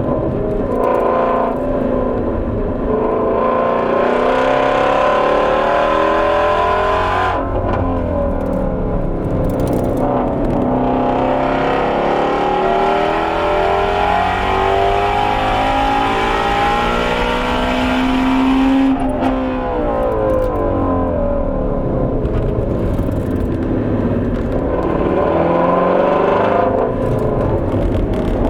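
Ford Shelby GT350R's 5.2-litre flat-plane-crank V8 pulling hard, revs climbing in long rises. It drops sharply twice, about seven and nineteen seconds in, then climbs again.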